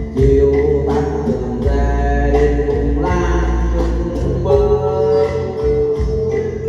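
A tân cổ song: a singer holding long, drawn-out notes over instrumental backing.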